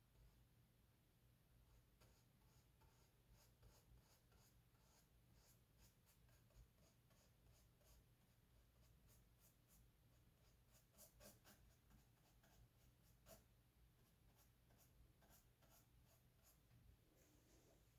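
Faint scratching of a paintbrush dragged across canvas in short, irregular strokes, over a low steady room hum.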